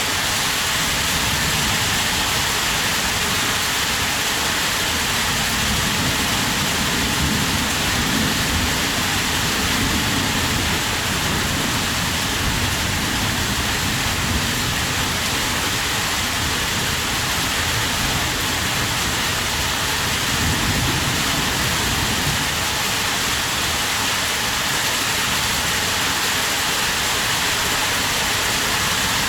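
Heavy rain falling steadily, a dense even hiss of drops. A low rumble swells up twice beneath it.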